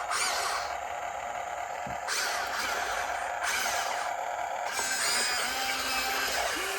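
Radio-controlled excavator's electric motor and hydraulics whining steadily, with a constant tone underneath. The sound shifts abruptly between louder and quieter sections several times.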